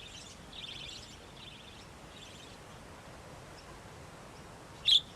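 Budgerigars chirping faintly over a quiet outdoor background, with one short, louder chirp near the end.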